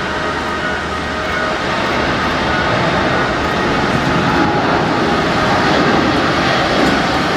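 Steady loud cabin noise inside a Korean Air Airbus A380 airliner: an even rumble and hiss with faint steady whining tones.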